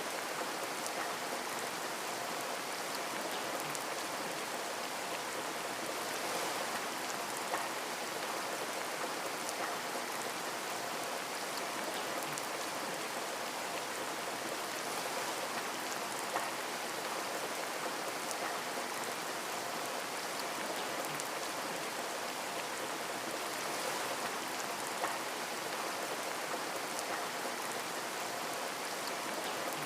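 Steady rain falling on a window, an even hiss with a few single drops that stand out louder now and then.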